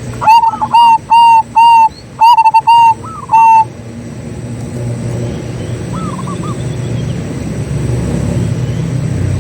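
Zebra dove (perkutut) cooing: a quick run of about eight clear, loud, evenly pitched notes in the first few seconds. A fainter, short curling dove call follows once, about six seconds in.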